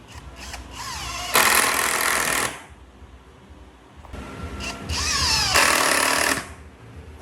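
A power tool working wood in two loud passes, each lasting about a second or so, with a quieter run-up before each one.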